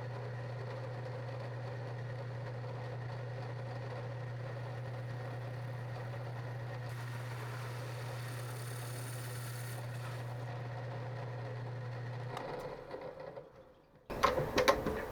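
Metalworking machine tool running a cut with a steady low hum. About twelve seconds in it is switched off and winds down to near silence.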